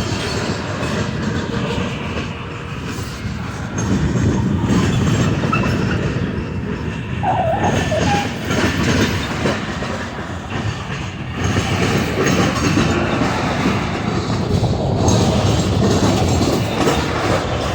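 Train cars rolling past on the rails: a steady clatter of wheels over the track joints, with a brief faint wheel squeal about halfway through.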